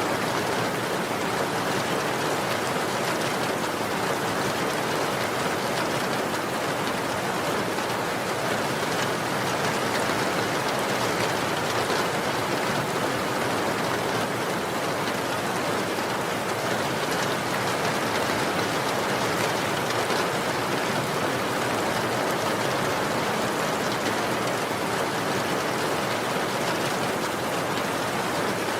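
Steady rainfall, an even hiss of rain pattering on a surface with no breaks or changes.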